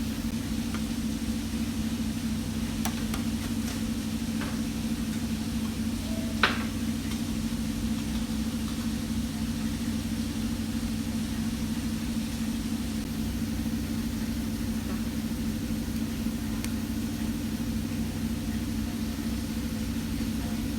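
A steady low mechanical hum, with a single sharp clink about six and a half seconds in and a few faint ticks.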